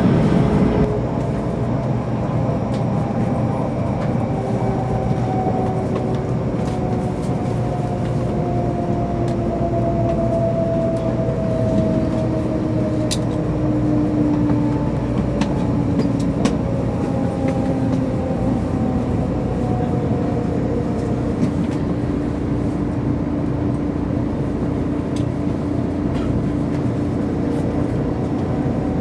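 Running noise of a 300 series Shinkansen heard from inside a passenger car: a steady rumble and hiss with faint motor whines slowly falling in pitch, and a few light clicks.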